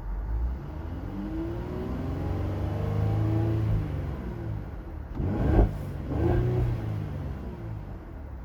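Mercedes-Benz GLE 43 AMG's 3.0-litre twin-turbocharged V6 being revved while parked. It makes one slow rev that rises and falls over a few seconds, then two quick blips of the throttle.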